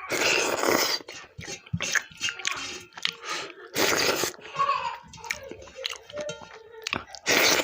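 Close-miked eating: a person chewing and biting food with small crunches and wet clicks, broken by three loud noisy bursts near the start, about four seconds in, and near the end.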